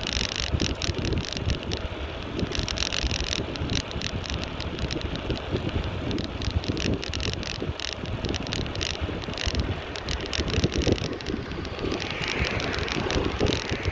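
Bicycle being ridden, with frequent small clicks and rattles from the bike and wind buffeting the microphone as a steady low rumble.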